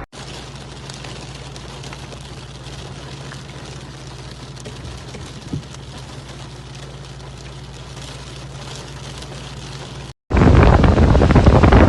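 Heavy rain: a steady low hum under faint rain patter for about ten seconds, then, after a brief break, a much louder rushing of downpour with wind on the microphone.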